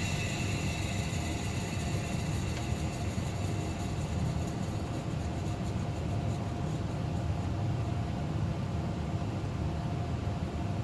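Carrier 58SSB gas furnace running steadily, its inducer motor giving a low rumble with a faint steady hum above it.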